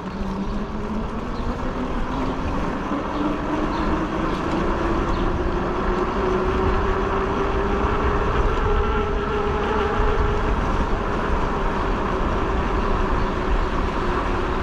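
Fat-tire e-bike riding along: a steady whine from the drive and tires rises in pitch over the first several seconds as the bike picks up speed, then holds, over a low rumble.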